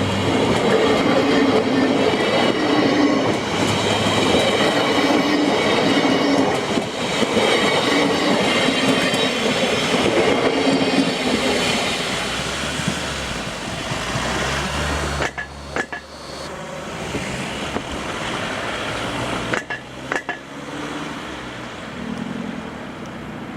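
Train passing close by, its wheels clattering in an even rhythm about once a second, then fading away after about twelve seconds to a low rumble.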